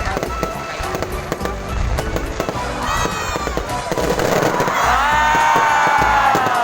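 Fireworks crackling and popping in rapid, irregular bursts, with music playing underneath; a long held, slowly falling tone rises over it in the second half.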